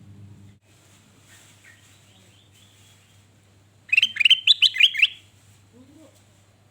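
Kutilang emas bulbul singing one quick phrase of about seven bright rising whistled notes, lasting about a second and starting about four seconds in, with a few faint chirps before it. A low steady hum runs underneath.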